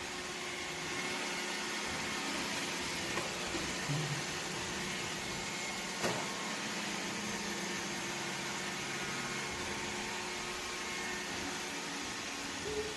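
iRobot Roomba robot vacuum and mop running with a steady hiss of suction, with a faint whine over it. A single click comes about six seconds in.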